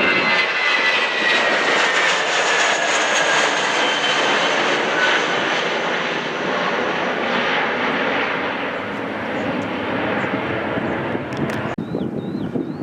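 Jet airliner's engines passing close by, a loud rush with a whine that falls slowly in pitch as it moves away. The sound cuts off abruptly near the end, leaving quieter outdoor noise.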